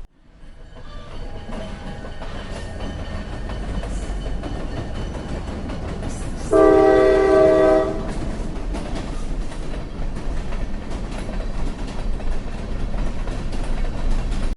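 A train running with a steady rumble, its horn sounding once for about a second and a half, some six and a half seconds in.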